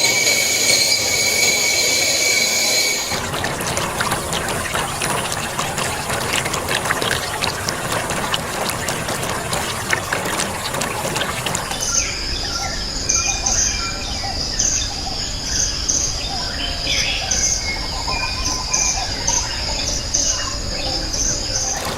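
Rainforest ambience of insects and birds. It opens with a steady high insect drone, turns into a dense crackling wash of jungle noise, and about halfway through settles into a steady high insect trill with short bird chirps beneath it.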